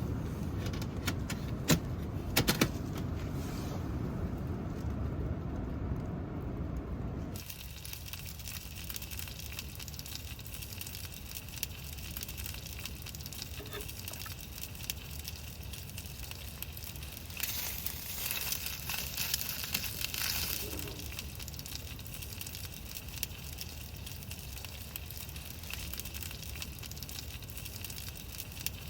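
Wood fire crackling in a small titanium wood stove, with a few sharp pops. A steady low rumble drops away abruptly about seven seconds in, leaving a quieter hiss with scattered crackles.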